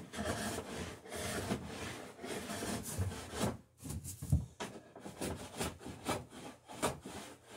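Hand beading tool (scratch stock) with a steel-screw cutter scraping a bead into a wooden boat rail: a run of short, rasping pull strokes with a brief pause about halfway.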